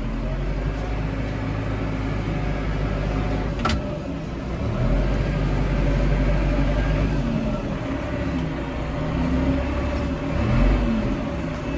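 Tractor engine running while driving across a paddock, its note rising and falling a little, with a single sharp click about three and a half seconds in.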